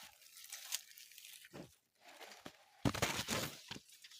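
Dry leaves rustling and crunching in irregular bursts, with a louder stretch of crackling about three seconds in.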